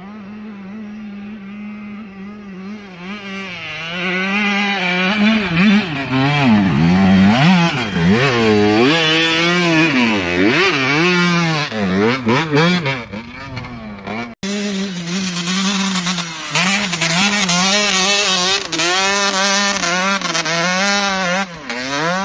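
125cc two-stroke dirt bike engine revving hard, its pitch swinging rapidly up and down as the throttle is worked, louder from about four seconds in. An abrupt cut about two-thirds through leads straight into more revving.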